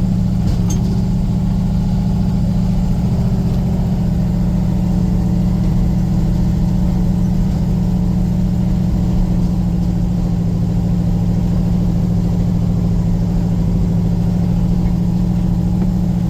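Vehicle engine running steadily at low, even revs, holding one pitch without revving up or down.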